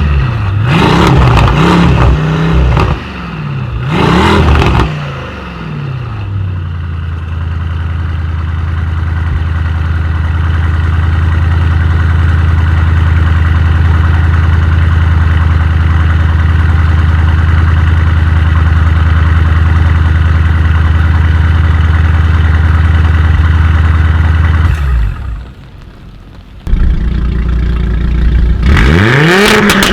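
Tuned car engine revving hard in quick rising and falling blips, then settling into a loud steady drone held for about twenty seconds. The drone cuts out briefly, then another burst of sharp revs comes near the end.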